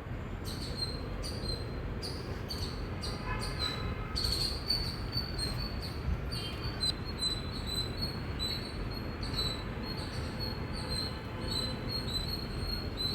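Indian palm squirrel chirping: a long series of short, sharp, high-pitched chirps, about two a second, over a low background rumble.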